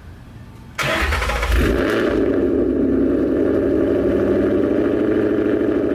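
Ford Mustang GT V8 cold start with long-tube headers, X-pipe and Roush axlebacks, resonators deleted: the engine fires about a second in with a loud burst and settles into a steady high idle.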